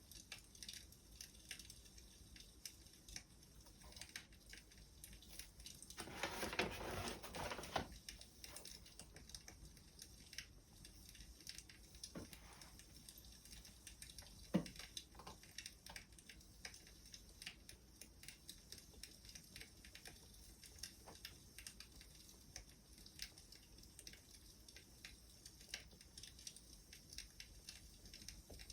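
Wood fire crackling faintly, with irregular small pops and ticks and a louder, denser flare of crackle lasting about two seconds around six seconds in.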